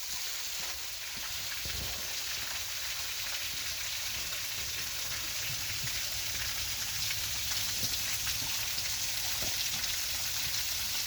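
Waterfall water falling and spattering in a steady hiss that grows a little louder.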